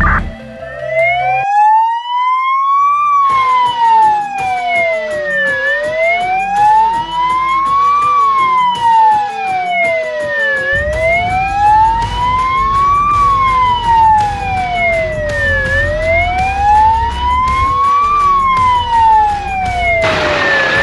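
Fire engine siren on a slow wail, its pitch rising and falling about every five seconds, four cycles. A low rumble comes in about halfway through.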